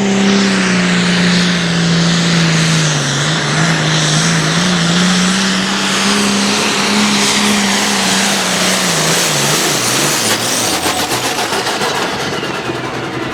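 Turbocharged diesel pulling tractor running flat out under load as it drags the weight sled; the engine note sags and climbs back as the load bites. About ten seconds in the pitch falls and the sound breaks into a rough, rapid pulsing as the engine comes off full power.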